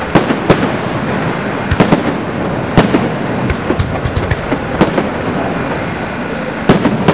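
Fireworks display: shells bursting in sharp bangs at irregular intervals over a continuous crackling rumble, with a quick cluster of bangs near the end.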